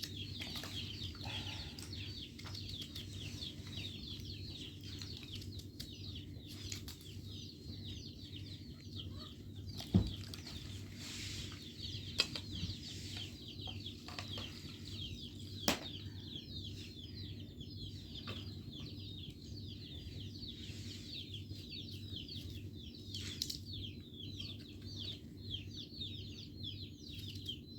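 Many birds chirping and cheeping continuously over a steady low hum. A few sharp knocks come about ten, twelve and sixteen seconds in.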